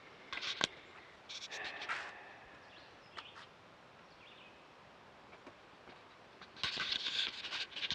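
Birds chirping and calling in short bursts, several times over, with the busiest stretch near the end.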